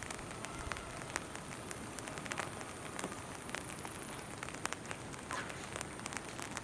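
Steady rain falling, with many individual drops ticking sharply and irregularly on nearby surfaces.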